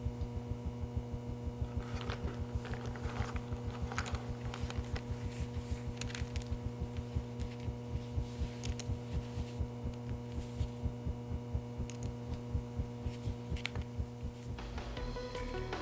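A steady droning hum made of several fixed tones, over a fast, regular low throb, with light clicks scattered through it. The throb stops about a second before the end, and music comes in.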